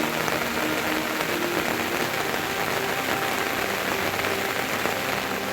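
Steady rain falling, an even wash of rainfall noise.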